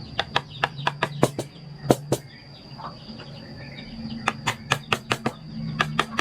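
Quick taps of a mallet driving a carving chisel into wood, several strikes a second, pausing for about two seconds near the middle before resuming.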